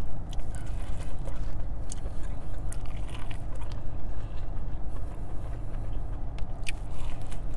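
Chewing and biting on corn on the cob close to a clip-on microphone, with scattered small mouth clicks, over a steady low hum in a car's cabin.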